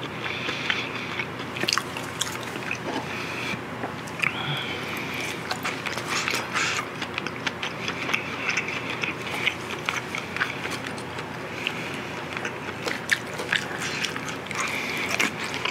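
A person chewing a mouthful of food, with many small, wet, irregular mouth clicks.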